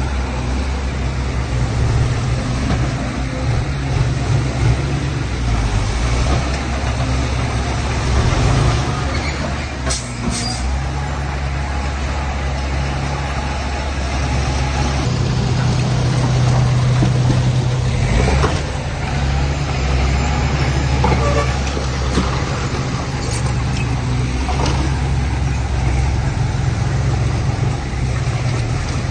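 Heavy diesel engines of earthmoving machines, a bulldozer and dump trucks, running with a deep steady drone whose note shifts every few seconds as the machines work. A few brief sharp sounds stand out over it.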